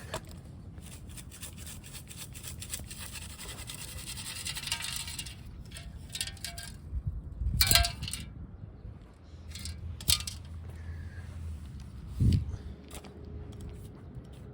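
Digging for a metal detector target: scraping and clinking of metal in the ground, with a few short detector tones. A loud knock comes about 12 seconds in, and a steady detector tone follows it.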